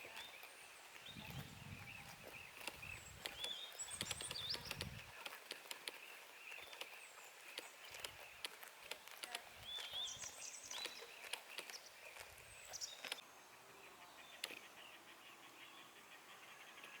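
Countryside ambience with small birds chirping now and then, over many short, crisp clicks and rustles; low rumbles in the first few seconds.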